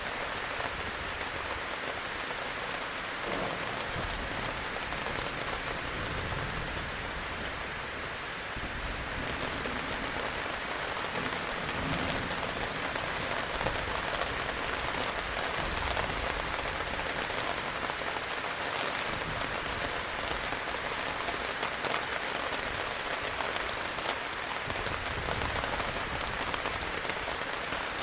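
Heavy rain falling steadily, with many individual drops striking close by over the continuous wash of the downpour.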